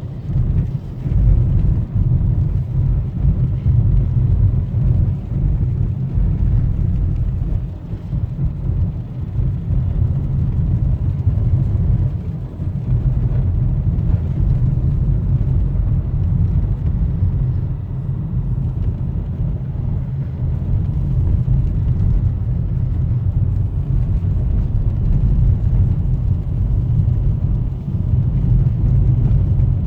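A car driving uphill on a snowy road: a steady low rumble of engine and road noise.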